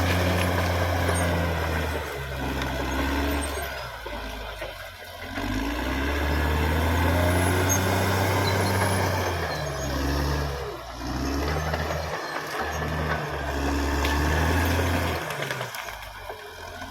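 Caterpillar D6R XL bulldozer's diesel engine running under working load, its low drone swelling and dropping several times as the load changes.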